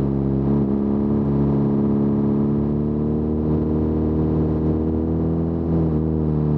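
BMW R nineT air-cooled boxer twin running steadily through its stock Akrapovic muffler with the baffle removed, an open, loud exhaust note. The pitch sags slightly and comes back up near the end.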